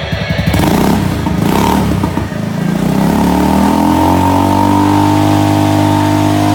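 Honda Fusion scooter's single-cylinder engine being revved: uneven at first, it rises in pitch over about a second and a half, then holds at a steady higher speed.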